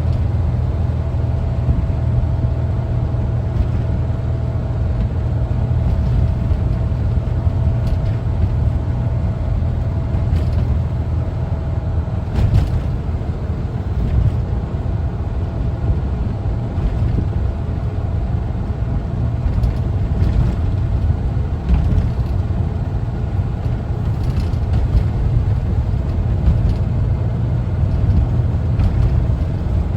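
A 1974 Volkswagen Westfalia camper driving, its air-cooled flat-four engine running with road noise as a steady low drone. A faint whine fades out about a third of the way in, and there is a brief knock a little before the middle.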